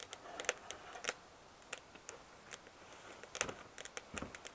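Sticks burning in the firebox of a BioLite Basecamp wood-burning stove, crackling with irregular sharp pops, and two duller knocks a little after three seconds in and near the end.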